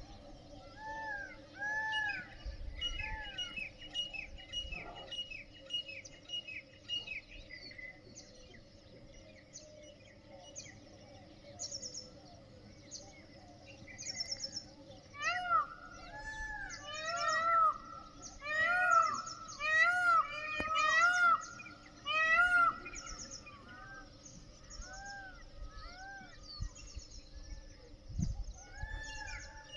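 Several birds calling and singing together in a dawn chorus: repeated arching whistled notes, with a rapid run of short high notes near the start. The calling grows busier and louder in the middle, then thins out.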